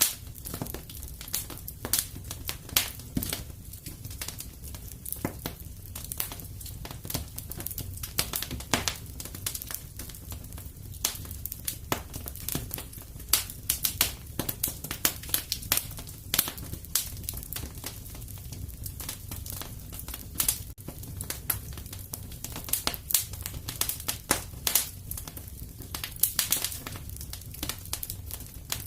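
Wood fire crackling in a fireplace: dense, irregular sharp pops and snaps over a low, steady rumble.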